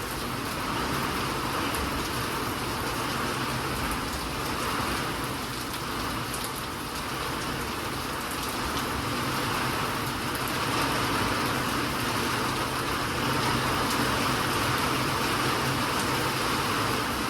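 Steady rain falling, an even continuous hiss with faint scattered drop ticks, growing a little louder in the second half.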